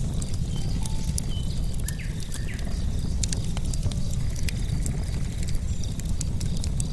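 Wood bonfire crackling steadily: a low rumble of flames under many sharp, irregular pops and snaps from burning logs.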